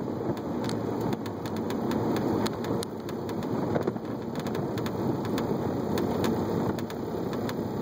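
Engine of a 546 whp Honda S2000, heard from inside the cabin, rumbling at low speed as the car rolls along, with frequent scattered sharp clicks over the drone.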